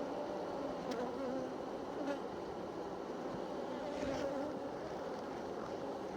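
Honeybees buzzing in a steady, slightly wavering hum, with a few light clicks.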